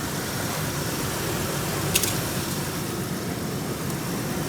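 Ford Explorer 4.0-litre V6 engine idling steadily. A single sharp click about two seconds in.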